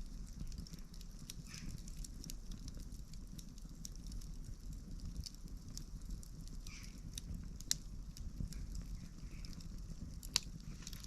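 Campfire burning: wood crackling with scattered small pops over a low steady rumble of the flames, with two louder, sharper pops, one about two-thirds of the way through and one near the end.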